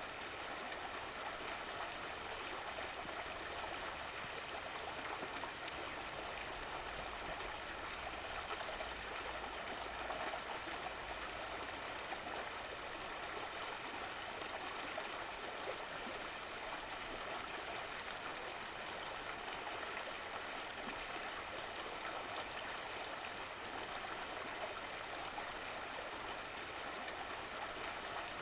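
Running water of a stream, a steady rushing and trickling without change.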